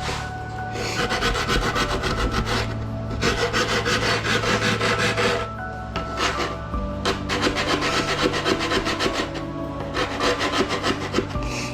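Fast, repeated rasping strokes of a hand tool working down a deer taxidermy form, in runs with two short pauses.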